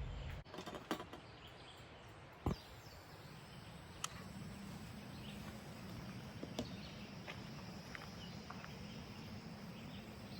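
Steady outdoor background noise with faint, short bird chirps and a few sharp clicks, the loudest about two and a half seconds in.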